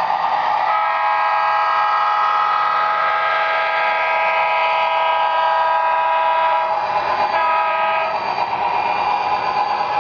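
Sound-equipped HO-scale Athearn EMD SD40-T model diesel locomotive sounding its horn through its small onboard speaker: one long chord blast of about six seconds, then a short blast, over the steady hiss of the engine sound effect.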